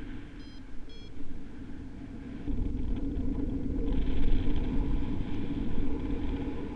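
Strong wind buffeting the microphone as a low rumble that grows heavier partway through, with a hissing rush swelling later. Two short, high electronic beeps sound in the first second.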